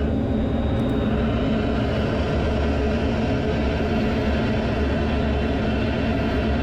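Fighter jet engine and airflow noise: a steady low rumble with a constant hum, holding level throughout.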